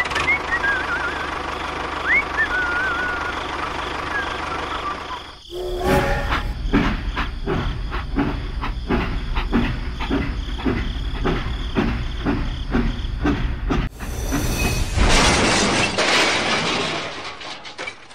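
Train running on a track: a steady rumble with a few short whistling glides at first, then a rhythmic clickety-clack of about two or three clacks a second from about five seconds in. About fourteen seconds in, a loud hiss like released steam takes over and fades near the end.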